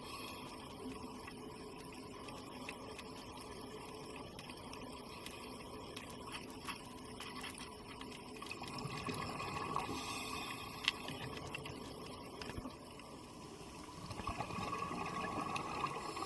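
Underwater ambience: a steady wash of sea water with a faint crackle, swelling twice and with one small click partway through.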